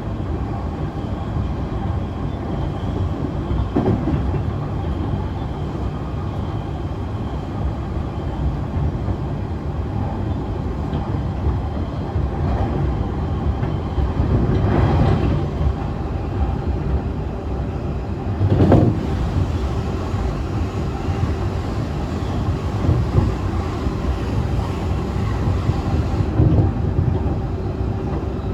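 Running sound of a JR E531-series electric train at speed, heard from inside the car: a steady rumble of wheels on rail with a few knocks from rail joints or points. A faint steady hum comes in about two-thirds of the way through.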